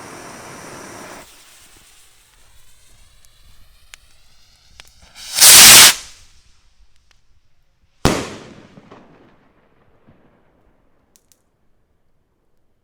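Firework rocket launching with a steady hiss that fades as it climbs, then a very loud bang as it bursts about five and a half seconds in, followed about eight seconds in by a second sharp bang that dies away over a second or so.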